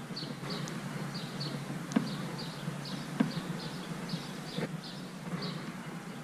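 Small birds chirping over and over, short high chirps two or three a second, above a steady low hum. A few sharp taps sound about two, three and four and a half seconds in.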